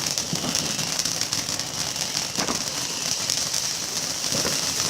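Lit sparklers fizzing with a steady hiss and fine rapid crackle.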